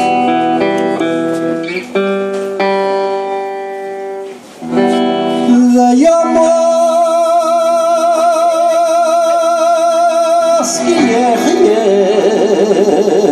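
Live band music: a run of plucked string notes, then from about six seconds in a long held note with vibrato over sustained accompaniment, wavering in pitch near the end.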